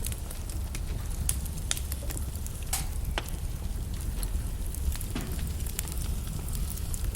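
Wood fire crackling, with frequent irregular sharp pops over a low steady rumble; a louder pop near the middle.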